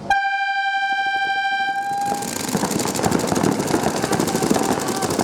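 A steady horn-like signal tone sounds for about two seconds, starting abruptly. Then dense loud noise of shouting and rapid clattering takes over.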